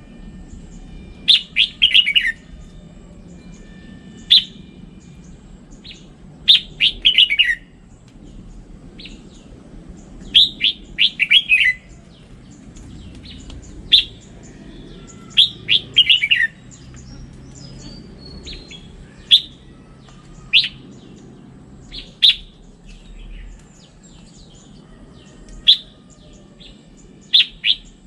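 Red-whiskered bulbul singing: short phrases of quick chirping notes, one phrase every two to three seconds, over faint low background noise.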